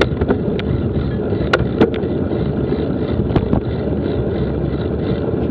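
Mountain bike rolling over a rough dirt trail, a steady rumble of tyres and wind buffeting the action camera's microphone, with scattered sharp clicks and knocks from the bike.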